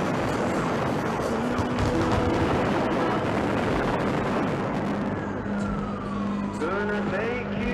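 Fireworks crackling and popping in a dense, rapid barrage, with a falling whistle over the last few seconds.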